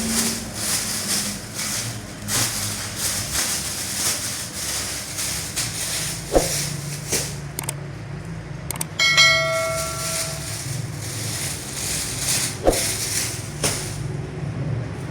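Work noise of repeated short scraping or rustling strokes, with two sharp knocks about six and thirteen seconds in, and a bell-like metallic ring about nine seconds in that lasts over a second.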